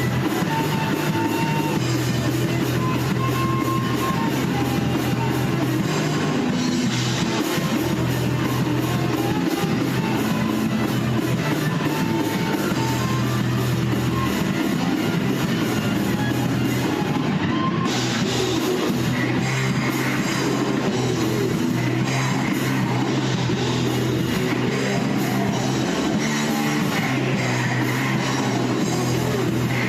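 Rock band playing live at rehearsal: electric guitars and bass over a drum kit with cymbals, a heavy instrumental passage with no singing.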